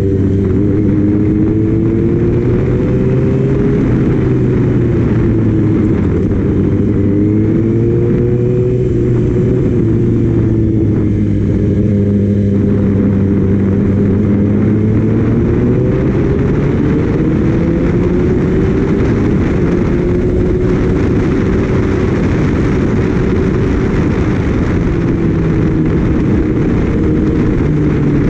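Heavy wind noise buffeting the microphone on a moving Kawasaki Ninja ZX-6R sport bike, with the inline-four engine's note underneath rising and falling slowly as the rider changes speed.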